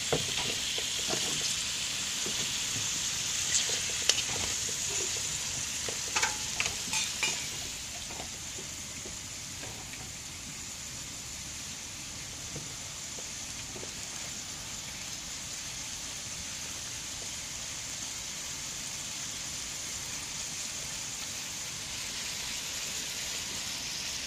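Beef and vegetables sizzling in oil in a metal wok. A few sharp clicks of a utensil against the pan come in the first several seconds, then the sizzle goes on steady and a little quieter.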